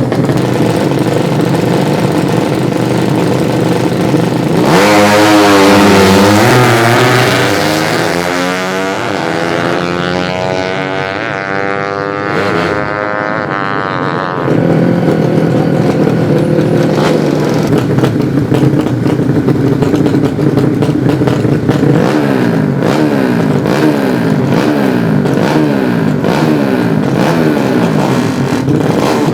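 Modified 200cc underbone drag-racing motorcycle engines. About five seconds in, one bike launches and accelerates hard, its pitch climbing through the gears and then fading by about fourteen seconds; after that, engines run at high idle, with one blipping its throttle over and over near the end.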